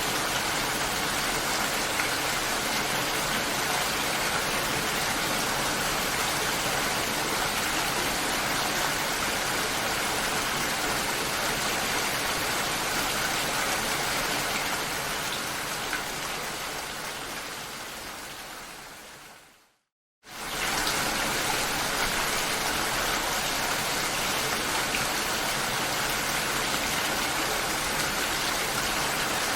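Steady rain, an even hiss of falling drops, that fades away over several seconds to a brief silence about two-thirds of the way through, then cuts back in abruptly and continues as before.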